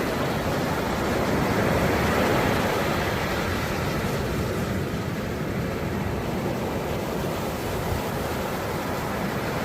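Ocean surf: gentle waves washing onto the beach in a continuous rush, swelling a little louder about two seconds in, then easing back to a steady wash.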